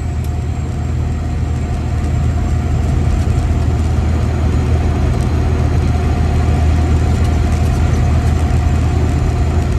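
Freightliner Classic XL semi truck's diesel engine running steadily under way, a deep even drone with road noise; it grows slightly louder about two seconds in.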